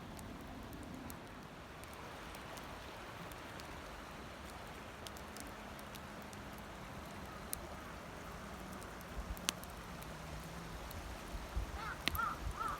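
Wood campfire crackling: a steady hiss with scattered sharp pops.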